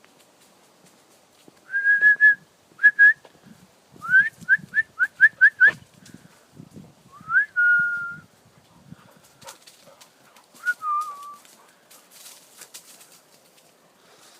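A person whistling: a held note, then a quick run of about seven short rising whistles, then a rising note that is held and, near the end, a short falling one.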